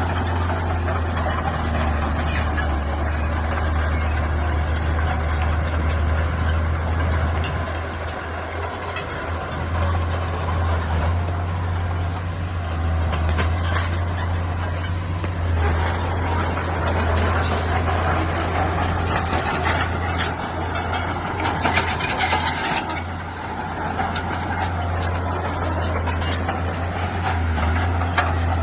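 Bulldozer's diesel engine running steadily with a deep drone, with scattered squeals and clanks from the crawler tracks and blade.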